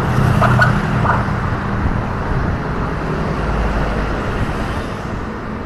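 Road traffic: a motor vehicle's engine close by, fading after about two seconds, over a steady low rumble of traffic.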